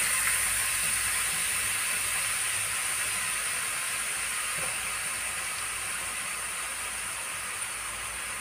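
Grated raw potato, just dropped into hot oil in a frying pan, sizzling as it deep-fries: a steady hiss that grows gradually quieter.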